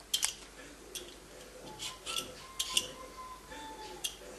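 Kitchen utensils working on food: a series of short, sharp scraping and clinking strokes, about seven of them, spaced irregularly.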